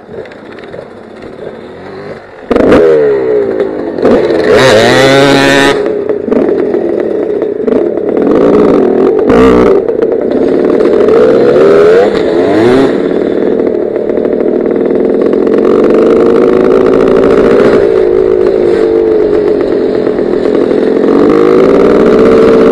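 Gas Gas 250 dirt bike engine heard from the rider's helmet camera: running quietly at first, then revving up sharply about two and a half seconds in as the bike pulls away. It keeps running hard after that, the revs rising and falling as it rides on.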